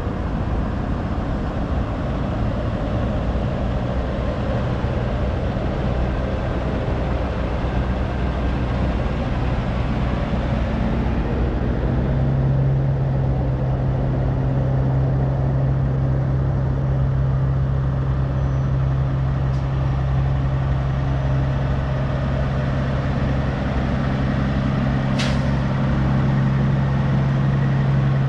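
Heavy diesel truck engine running steadily, a low drone that settles onto one steady pitch about twelve seconds in.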